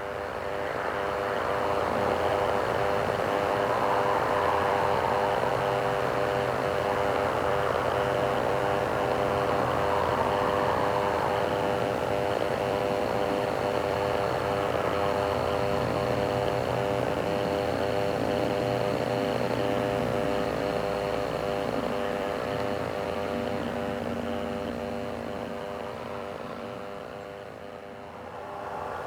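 Aircraft engine drone: a steady, even hum with no rise or fall in pitch. It grows louder over the first few seconds, holds, and fades away near the end.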